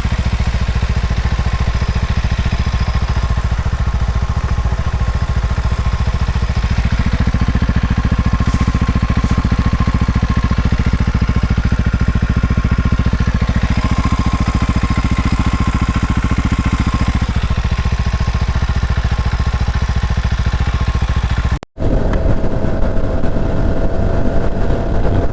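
Small Herald motorcycle engine running steadily while under way. The sound breaks off sharply a few seconds before the end and comes back rougher.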